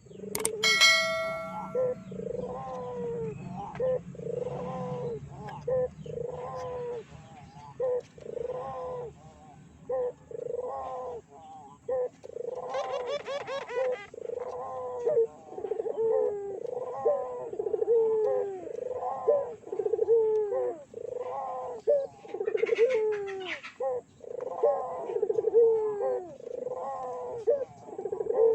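Puter doves (Barbary doves) cooing over and over, with falling coo notes following one another about once a second. A brief chime rings near the start, and short higher chirps from another bird come in twice.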